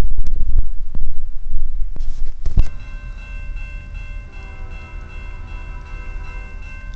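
CN diesel-led freight train approaching: a heavy, uneven low rumble for the first few seconds, then quieter, with several steady high tones held from about three seconds in.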